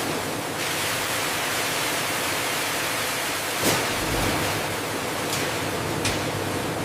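Steady rushing hiss of food-processing machinery running, with one sharp knock a little past halfway and a fainter click near the end.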